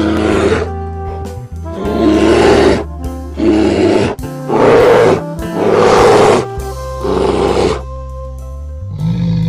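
A large animal roaring about six times, each roar under a second long and about a second apart, over background music with a steady bass.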